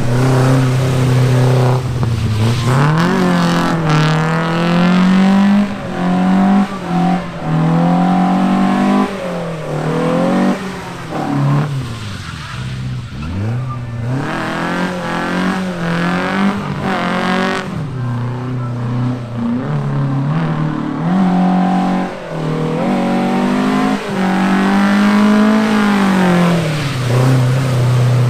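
Datsun drift car's engine revving hard, its pitch climbing and falling again and again as it is driven sideways on a wet skid pad.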